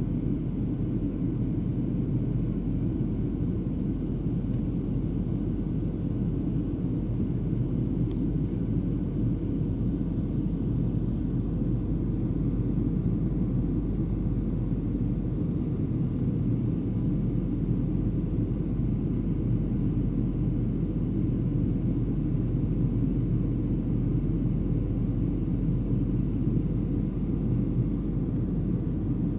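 Steady low rumble of an airliner cabin in flight: engine and airflow noise, unchanging.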